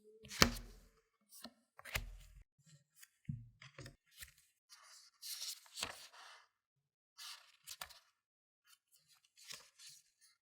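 Close-up handling of a watch's packaging being opened: a few soft knocks in the first four seconds, the loudest about half a second in, then short scraping and tearing strokes of packaging material.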